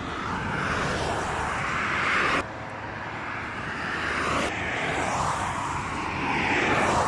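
Road traffic noise: vehicles passing, the rush of engines and tyres swelling and fading, broken by two abrupt cuts.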